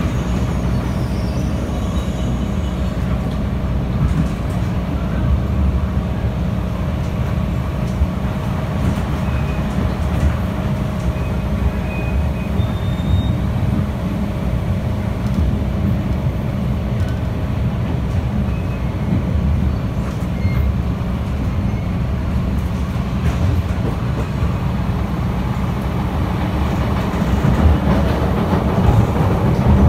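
MTR Disneyland Resort Line M-Train running at speed, heard from inside the carriage: a steady low rumble of wheels on the track with a faint steady whine. Near the end the noise swells as another train passes close alongside.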